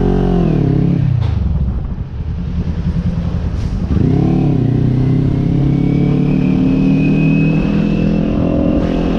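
Motorcycle engine revving. Its pitch swells and falls twice, then climbs slowly and steadily as the bike accelerates.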